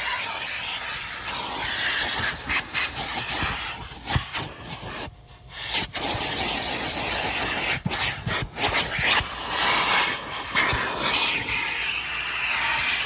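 Car wash vacuum sucking through its hose and tool with a steady hiss, broken by scattered clicks and knocks as the tool scrapes against the car's interior. The hiss drops away briefly about five seconds in.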